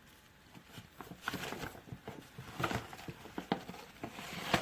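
Spoon scraping and tapping as baking soda is scooped into a small bottle: a run of irregular light clicks and scrapes, with one sharper knock near the end.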